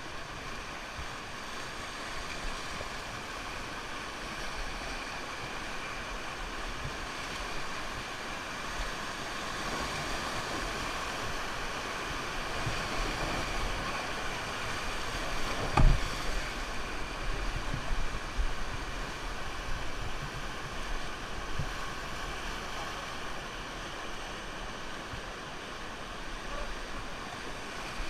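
Rushing river water in a steady rush of noise, growing louder through the middle. A single sharp knock comes about halfway through.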